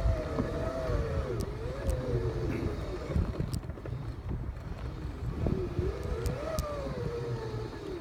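Segway X2 SE's electric drive whining as it rides over rough, rocky ground, the pitch rising and falling with speed, over a low rumble with a few scattered clicks.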